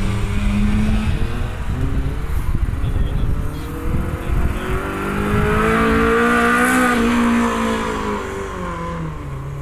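Honda S2000's four-cylinder engine revving as the car drives the course. Its pitch climbs to a peak about two-thirds of the way through and then falls away as it pulls off, with low buffeting from wind on the microphone through the first half.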